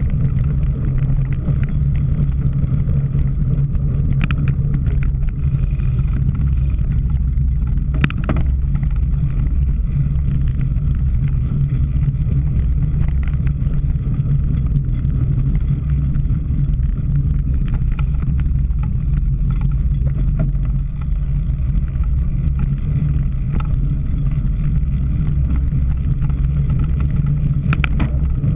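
Steady rumble of wind and riding on the microphone of a camera carried on a cyclocross bike, with a few sharp clicks or rattles, one about 4 s in, one about 8 s in and one near the end.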